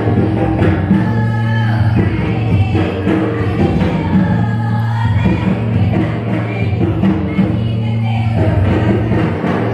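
A group of voices singing a Karam folk song (karam geet) together over music, with a steady low hum beneath.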